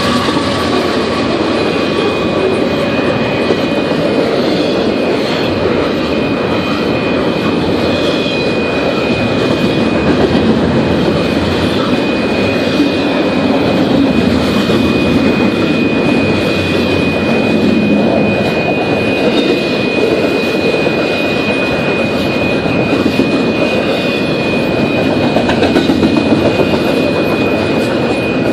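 Double-stack container train cars rolling past, a loud steady rumble of wheels on rail, with a thin steady high-pitched tone running over it.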